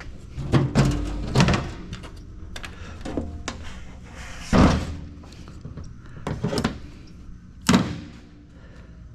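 Metal equipment being handled: a series of knocks and clanks, several near the start, the loudest about halfway through and another sharp one near the end, some with a brief ringing.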